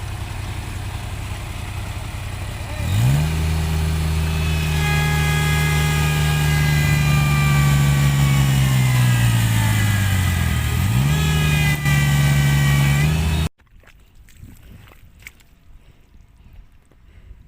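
Tractor engine running steadily, then revving hard about three seconds in and held at high revs with the pitch slowly sagging as it labours, typical of a tractor straining in deep mud. It drops, revs up again, and then cuts off suddenly, leaving only faint low noise.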